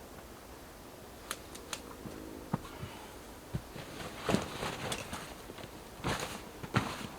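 Irregular clicks, knocks and rustling of camping gear being handled and unpacked, with the sharpest knocks a little past halfway and near the end.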